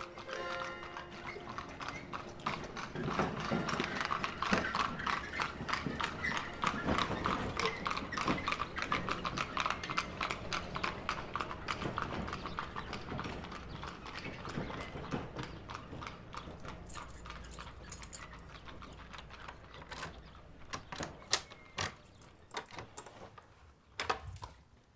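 Horse's hooves clip-clopping at a steady walk. The hoofbeats grow louder over the first few seconds, then slowly fade away, leaving a few scattered knocks near the end.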